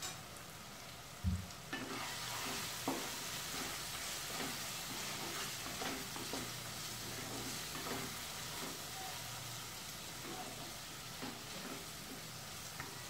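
Onion-tomato masala with ground spices sizzling in oil in a kadai while a spatula stirs and scrapes through it in short strokes, a stage of frying the masala. A single thump about a second in, with the sizzle growing louder just after.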